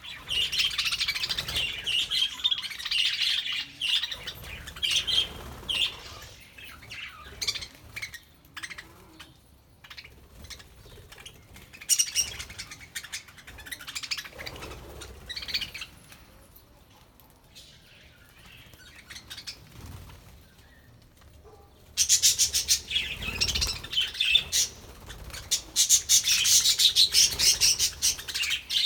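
A flock of budgerigars chattering and chirping in bursts, busiest in the first few seconds and again near the end, with quieter lulls in between.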